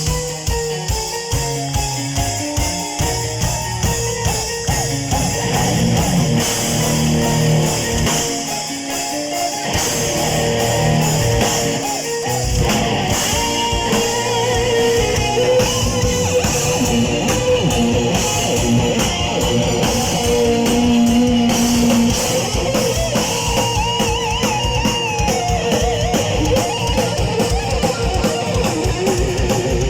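Heavy metal band playing live in an instrumental passage, with no singing: an electric guitar lead line with bends and vibrato over a drum kit and bass.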